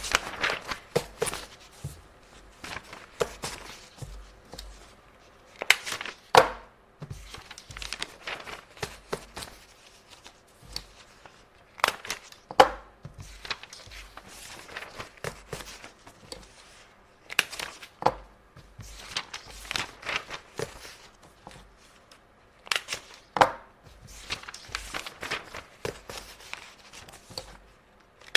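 Paper being handled: sheets rustling and crinkling in bursts every few seconds, with sharp taps and clicks among them.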